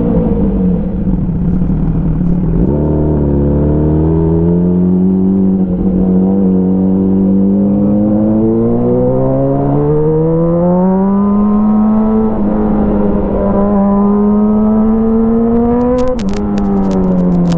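Motorcycle with an Avionic aftermarket exhaust, ridden under acceleration. The exhaust note climbs steadily with the revs and drops at a gear change about three seconds in and again near the end, where a few sharp crackles come through.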